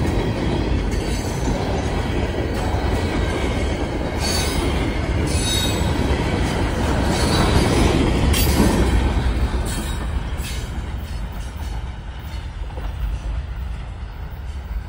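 Freight train's open-top cars rolling past, wheels rumbling with several short squeals. It is loudest as the last car goes by, then fades as the train moves away.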